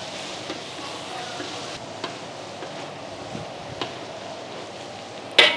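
Ground garlic and shallots sizzling in hot oil in a wok, stirred with a metal ladle: a steady frying hiss with a few light clicks, and a louder knock near the end.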